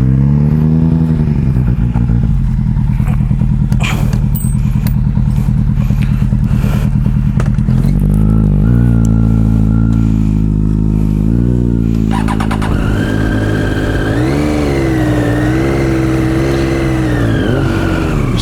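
Motorcycle engine running, its revs rising and falling, with a few clicks or knocks about four seconds in. About twelve seconds in, a second, higher-pitched engine note joins and rises and falls.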